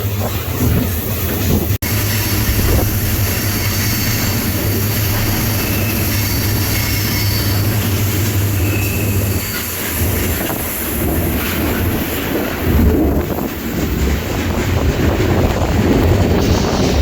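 Freight train in motion, heard from aboard a car: a steady rumble of steel wheels on rail with faint wheel squeal.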